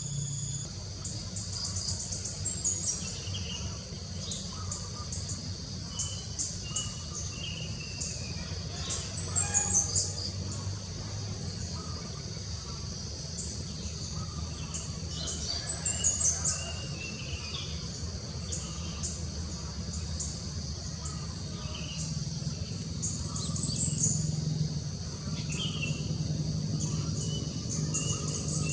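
Wild birds calling over a steady high insect chorus. A bird repeats a quick falling run of high notes every several seconds, with other scattered chirps between, over a constant low rumble.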